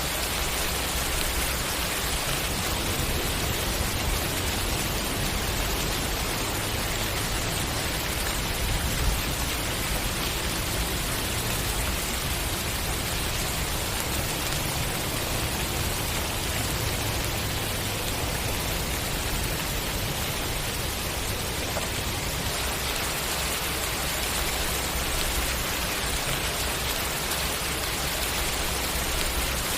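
Steady, heavy rain falling, an even dense hiss of drops with no let-up, and one brief louder tap about nine seconds in.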